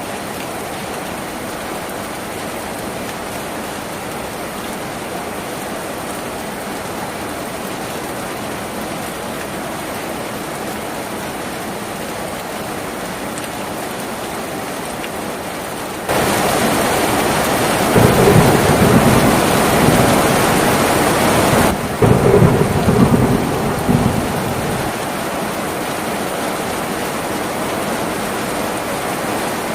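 Steady rain on a tin roof. About halfway through the rain suddenly gets louder and thunder rumbles for several seconds, then fades back to steady rain.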